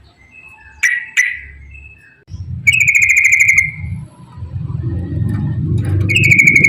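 Yellow-vented bulbul (trucukan) singing: a couple of short notes about a second in, then two longer, rapid bubbling phrases, one in the middle and one near the end. A low rumbling noise builds underneath from about two seconds in.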